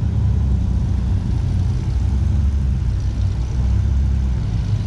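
Engine of a classic car or truck running steadily as it drives slowly past, a deep low engine note.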